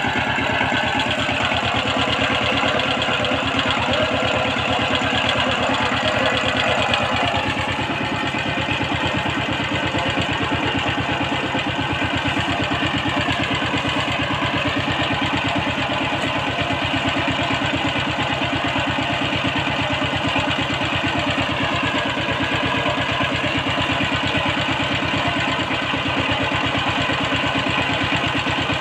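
Power tiller engine running steadily with a rapid, even firing beat.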